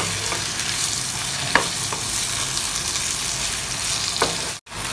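Chopped tomatoes sizzling in hot oil in a frying pan while a spatula stirs them, with a few light knocks of the spatula against the pan. The sound cuts out for a moment near the end.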